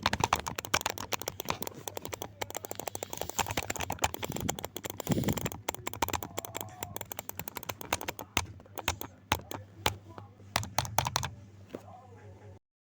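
Keyboard typing: fast, dense key clicks that thin to scattered keystrokes over the last few seconds and stop shortly before the end, over a steady low hum.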